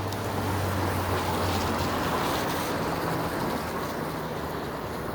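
Vehicle tyres hissing on wet pavement as traffic passes, a spray-like swish that swells about a second or two in and eases off.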